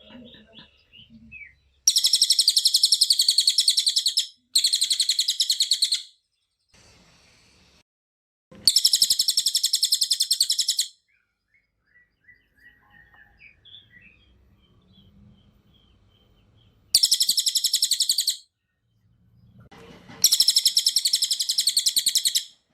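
Cililin bird singing in five loud bursts of very fast, high-pitched rapid-fire trilling, each one and a half to two and a half seconds long. Faint short chirps come in the gaps between bursts.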